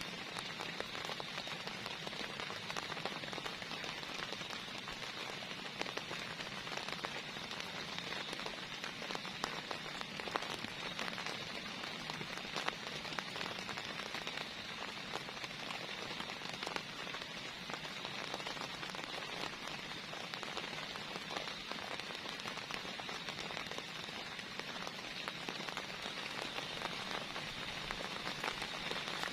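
Heavy rain falling steadily, with a dense spread of individual drop hits.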